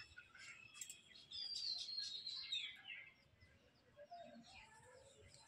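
Birds chirping, with one thin call sliding downward in pitch for about two seconds, starting a little over a second in.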